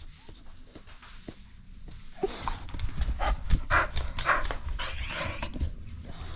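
A dog making a run of short, noisy sounds that starts about two seconds in, grows loudest near the middle and fades shortly before the end.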